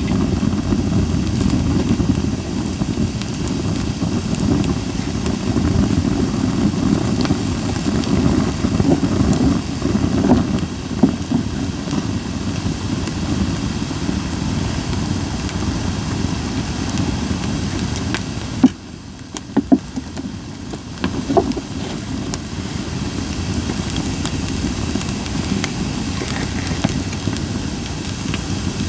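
Japanese white pine campfire burning with a steady low rumble and scattered crackles. Around the middle the rumble briefly drops away and a few louder pops stand out.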